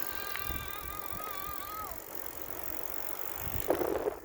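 Bicycles rolling along with a steady low rumble of tyres and wind. A high, steady squeal sounds for about two seconds at the start and drops in pitch as it ends. A short louder noise comes near the end.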